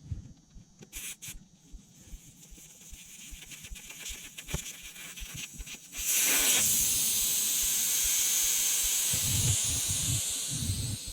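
A rush of escaping air hissing, starting suddenly about six seconds in and running about four seconds before tapering off. It comes after a few light knocks and clicks, with some low thumps under the hiss near its end.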